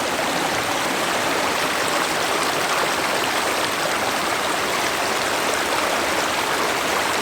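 A fast-flowing river rushing steadily over its bed, the water running high and with strong force.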